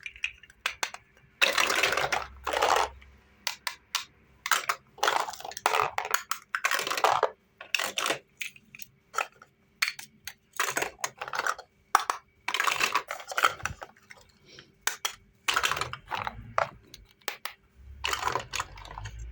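Close-miked eating of bottle-shaped candy jelly: irregular crunchy bites and chewing, with sharp clicks between them.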